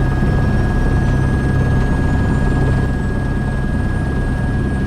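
AS355 Twin Squirrel twin-engine helicopter heard from the cockpit: a turbine engine spooling up during its start, with the other engine already running and the rotor turning. A steady drone, with a faint high whine rising slowly.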